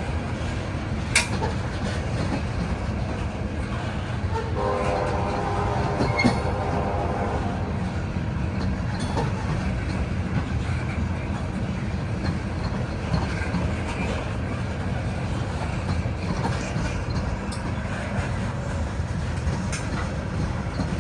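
Loaded coal train rolling past on the grade with a steady low rumble of wheels on rail, and a couple of sharp clanks. About four and a half seconds in, a train horn sounds for about three seconds.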